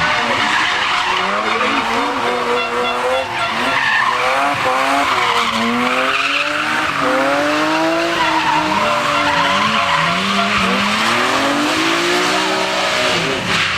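Drift car sliding through a hairpin: the engine revs rise and fall again and again as the driver works the throttle, over continuous tyre squeal.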